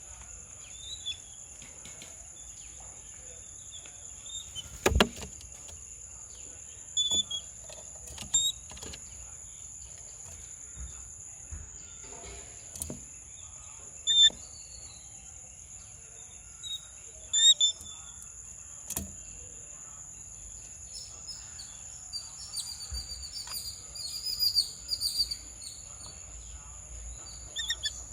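Small wild birds chirping in short, scattered calls, growing into a denser run of chirping near the end. Under them runs a steady high-pitched whine, and a handful of sharp knocks land through the middle.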